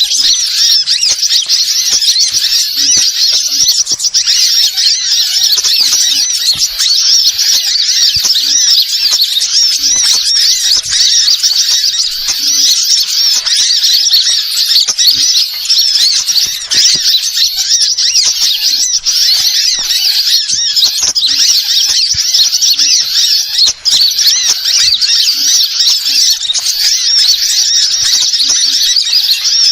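Many small birds twittering and chirping at once, their high calls overlapping in a dense, unbroken chatter.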